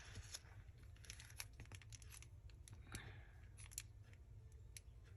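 Faint rustling of paper being handled, with scattered light clicks and taps.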